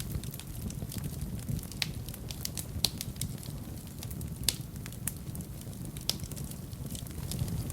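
Wood fire burning in a fireplace: a low steady rumble of flames with irregular sharp crackles and pops from the burning logs, a few louder pops scattered through.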